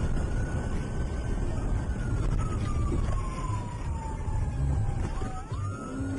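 Siren wailing over steady low road and engine rumble: one tone that slowly falls over about five seconds, then sweeps quickly back up near the end.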